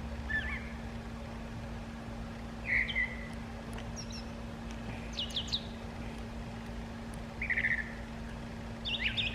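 Birds chirping: short calls every second or so, some sweeping quickly in pitch, over a steady low hum.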